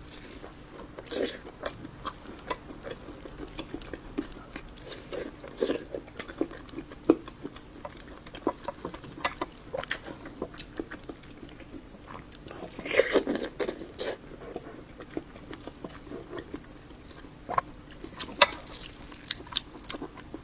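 Close-up chewing and biting of Chinese cured pork, with irregular mouth clicks. There is a louder spell of chewing about two-thirds of the way through.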